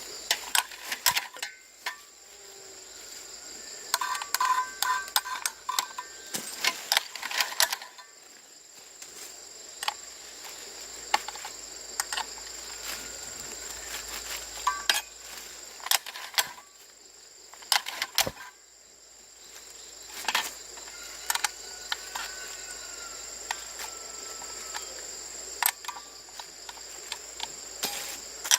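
Scattered sharp clicks and clinks of hand tools and metal parts being handled, in irregular clusters, over a steady high-pitched insect chirring.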